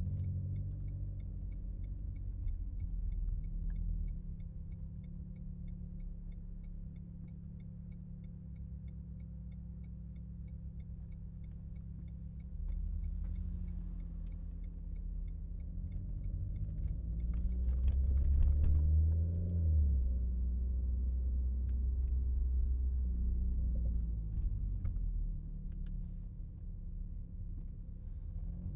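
Renault Mégane RS Trophy's turbocharged four-cylinder engine heard from inside the car, running low through traffic, then revving up in a rising pull about two thirds of the way through before easing off again. A steady ticking runs through the first half.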